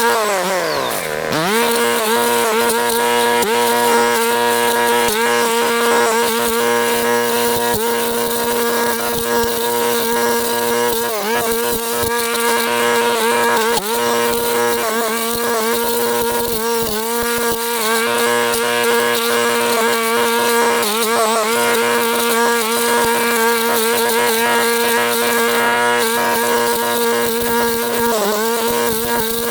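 Stihl Kombi brush cutter's small engine revving up, then running steadily at high speed with a three-tooth brush blade, its pitch dipping briefly now and then as the blade bites into brush.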